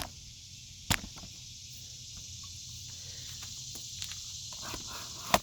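Sharp metallic clicks and knocks as the new AC receiver-drier and its fittings are handled and pushed into place, three loud ones (the last the loudest) with lighter ticks between, over a steady high hiss.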